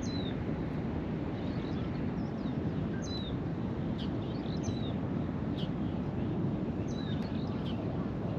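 Small birds chirping, short sharp calls repeated about once a second, over a steady low outdoor rumble.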